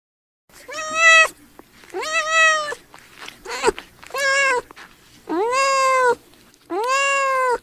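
Domestic cat meowing repeatedly: five drawn-out meows, each about half a second to a second long, with a short, rougher cry in the middle.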